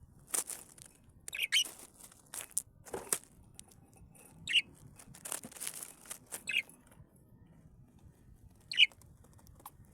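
Pet birds chirping with short, separate calls every second or two, with brief bursts of wing fluttering among them.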